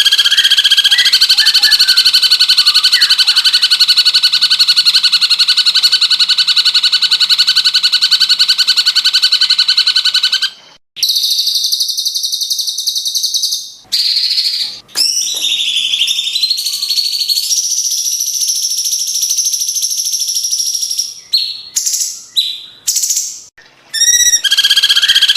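Cucak cungkok, a bulbul, singing in a recorded song-training track: a long, rapid, high trill for about ten seconds, then varied whistled phrases with sliding and stepping notes and a few short chirps, and the trill starts again near the end.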